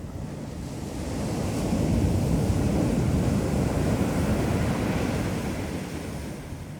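A sea wave breaking and washing up the beach: the surf swells about a second in and fades away near the end, over a steady low rumble of wind on the microphone.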